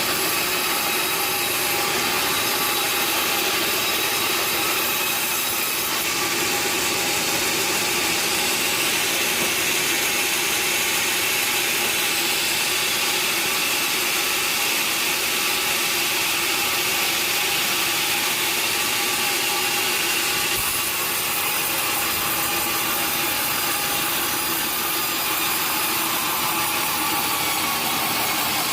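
Sawmill saw cutting through timber: a steady, unbroken sawing sound with no pauses.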